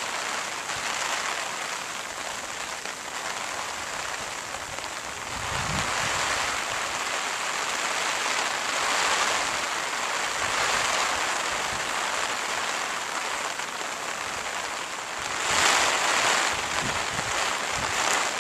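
Steady watery hiss, swelling louder for a second or two several times, most strongly near the end.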